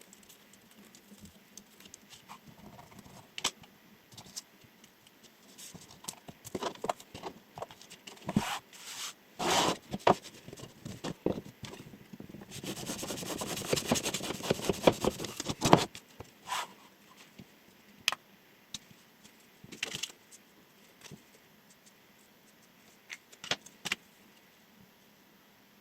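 Chef knife being handled and cut with in a sharpness test: scattered clicks and taps, and in the middle about three seconds of dense, rapid crackling as the blade cuts through something.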